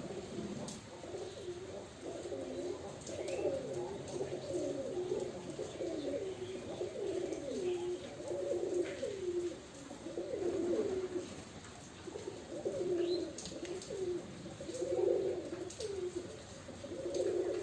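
Domestic pigeons cooing over and over, in a run of low, rolling coo phrases with short pauses between them.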